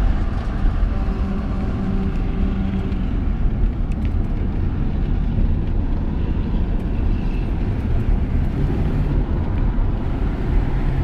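1967 Mercury Cougar's V8 engine running at speed, heard from inside the cabin as a steady loud drone with deep rumble, mixed with road and wind noise.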